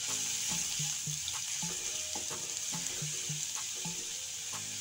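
Grated garlic and chopped green chilli sizzling in hot oil in a nonstick kadai, with a steady hiss, while a wooden spatula stirs and scrapes the pan in repeated short strokes as they are sautéed.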